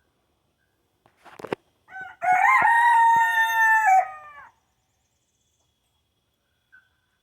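A rooster crowing once: a single crow of about two and a half seconds, starting about two seconds in, with a short burst of noise just before it.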